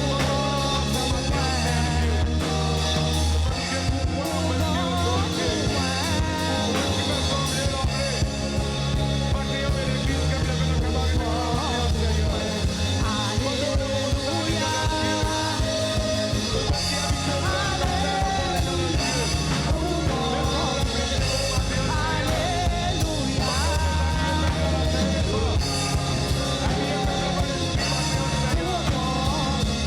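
Live church band music: drums, bass and other instruments playing a hymn, with singing.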